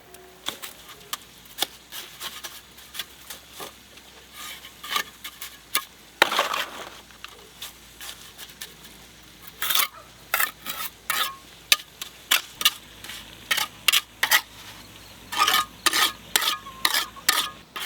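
An irregular run of sharp clinks and knocks of hard objects, some coming in quick clusters.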